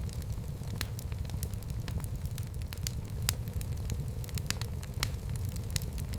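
Fire burning in a fireplace: irregular sharp crackles and pops, several a second, over a steady low rumble.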